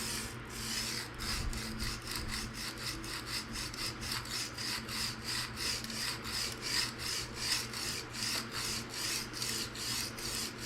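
Steel knife blade stroked rapidly back and forth across a coarse 220-grit diamond sharpening stone, a steady rhythmic scraping of about three to four strokes a second.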